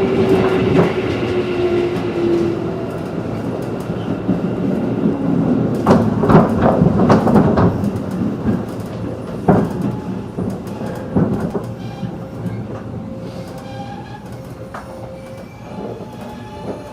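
Running sound inside a JR 211 series electric train: a dense rumble with a steady tone early on, and wheels clattering over rail joints in clusters of sharp clicks in the middle. The sound eases off over the second half.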